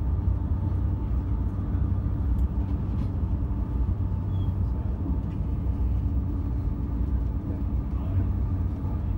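Steady low rumble of an AVE high-speed train running at speed, heard inside the passenger car, with a faint steady hum and a few light clicks.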